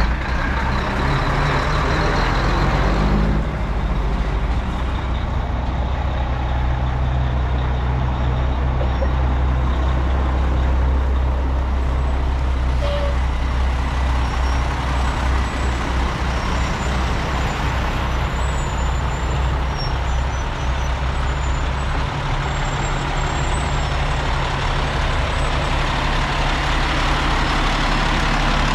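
Heavy diesel truck engine running steadily at idle, a low even rumble that goes on without a break.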